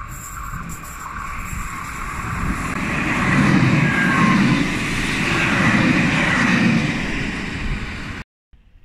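Electric Cercanías commuter train passing close by on the track, a rail rumble that builds to its loudest in the middle and then fades. The sound cuts off suddenly near the end.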